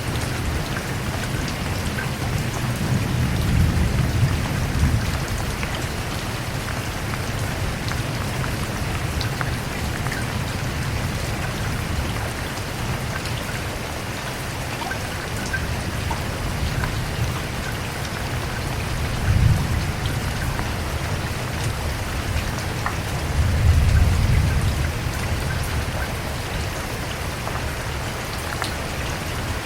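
Steady rain falling, an even hiss with scattered individual drop hits. Low rumbles of thunder swell up three times: a few seconds in, just before two thirds of the way, and most strongly a few seconds later.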